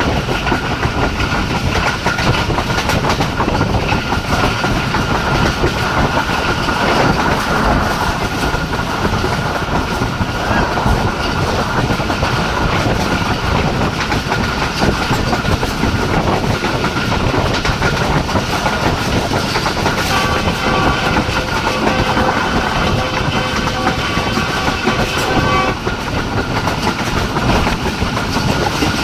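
Passenger train running at speed, with a steady rumble of wheels clattering on the rails. About two-thirds of the way through, a train horn sounds one steady note for about six seconds, then cuts off.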